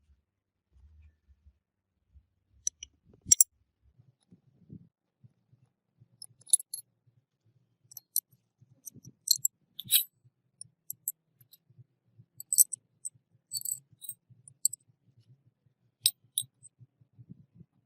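Irregular sharp clicks and clinks of small metal parts and tools being handled during work on a gearbox, a few strokes a second at their busiest.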